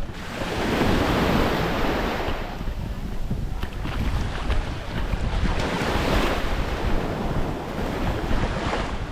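Small waves washing up onto the beach twice, swelling about a second in and again around five to six seconds in, with wind rumbling on the microphone.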